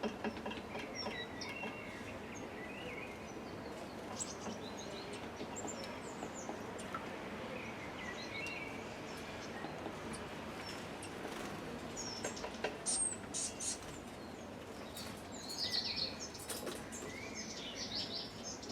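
Small birds chirping at a feeder in short, scattered calls over a steady background hiss. Clusters of sharp ticks come a little after the middle and again later on.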